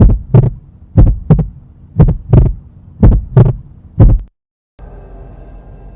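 Bass-heavy heartbeat sound effect: loud, deep lub-dub double thumps about once a second, stopping a little after four seconds. A faint steady hum follows after a short gap.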